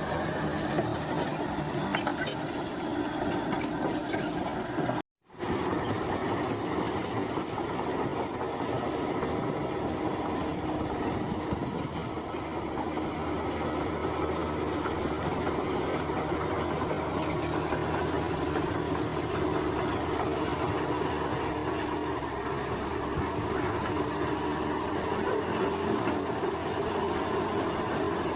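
Heavy earthmoving machinery running steadily: diesel engine and track noise. It cuts out to silence for a moment about five seconds in, then picks up again.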